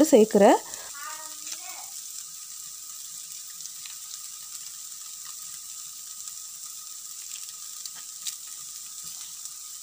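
Steady, quiet sizzle of grated carrot, cabbage and onion frying in a pan, with a few faint crinkles of foil as a cheese wedge is unwrapped.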